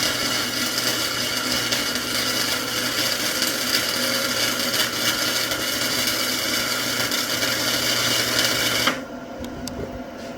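A small 120-volt flux-core MIG welder's arc crackling steadily as a bead is laid, with a steady low hum underneath. The arc cuts off abruptly about nine seconds in, leaving a faint hum and a few clicks.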